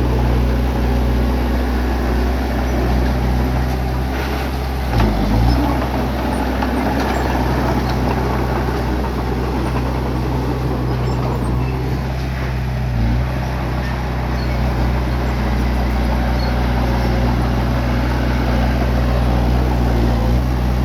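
Bulldozer's diesel engine running steadily under load, a low even drone whose note wavers briefly about five seconds in and again about thirteen seconds in.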